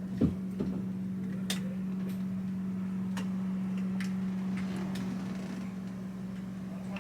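A steady low hum of machinery in a boat's engine room, before the main engines start, with a thump just after the start and scattered light clicks and ticks.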